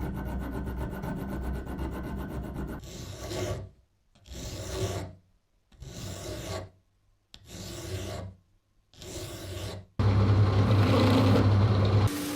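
Rasping, rubbing strokes of hand work on a workpiece, first steady, then in four short separate bursts with silence between. Near the end a louder machine runs with a low hum for about two seconds.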